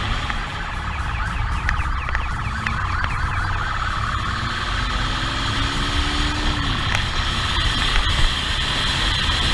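Police motorcycle siren sounding during a pursuit, with a stretch of rapid yelping sweeps, over heavy engine and wind rumble at speed.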